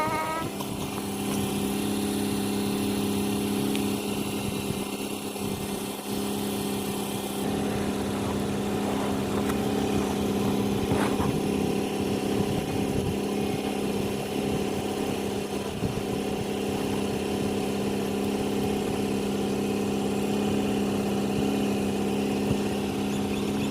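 An engine running steadily at one speed, a constant hum.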